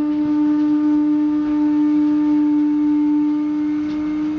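Commuter train slowing along a station platform, heard from inside the carriage: a loud, steady droning tone with fainter overtones above it.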